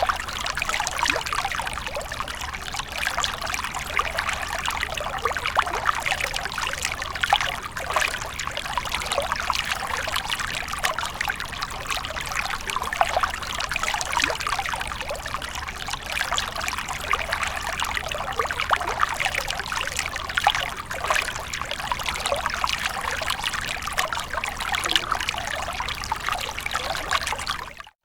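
Water fountain splashing and trickling steadily, a continuous patter of falling water. It drops out for an instant at the very end.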